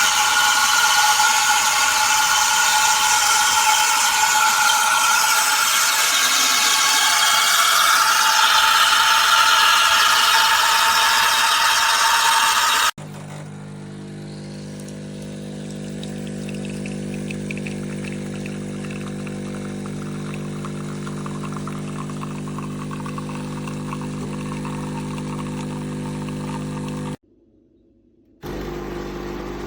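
Espresso machine running. First comes a loud hiss with several steady high-pitched whistling tones. It cuts abruptly to a steadier, lower mechanical hum, which drops out briefly near the end.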